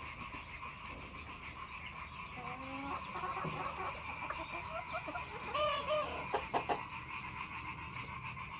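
Chickens clucking in a series of short calls, over a steady high-pitched background hum. A few sharp clicks come about six seconds in.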